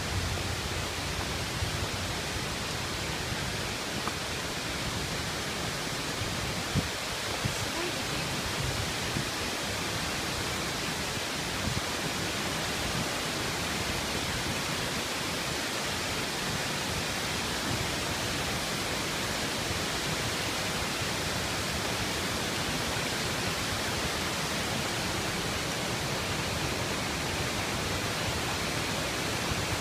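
Oshinkoshin Falls, a waterfall, pouring in a steady, even rush of water, with a couple of brief knocks about seven seconds in.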